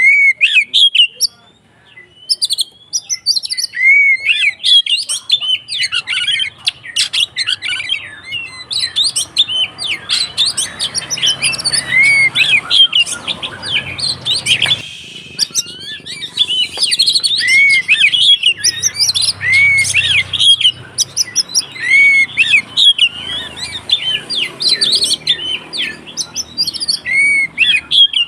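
Oriental magpie-robin singing a fast, excited stream of varied whistles, chirps and harsh notes with hardly a break. This is the agitated 'konslet' fighting song.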